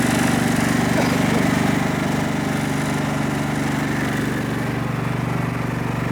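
Riding lawn mower engine running steadily under load as the mower pulls a second riding mower up a steep hill; it eases off slightly about two seconds in.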